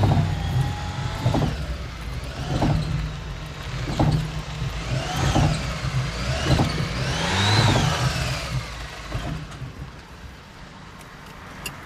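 Car engine running as the car drives, rising and falling in pitch several times, then easing off for the last few seconds.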